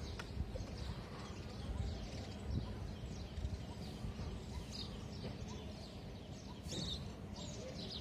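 Birds chirping: many short, high calls sliding down in pitch, scattered throughout and thickest a little after the middle, over a steady low background rumble.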